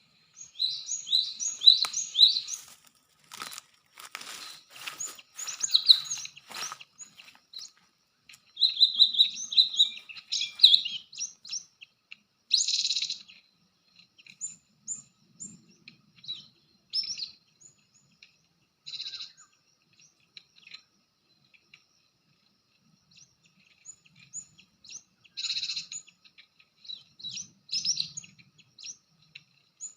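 Cinereous tits (gelatik batu) chirping and calling in short, quick high notes and phrases, on and off. There is a run of sharp clicks or rustling about three to seven seconds in.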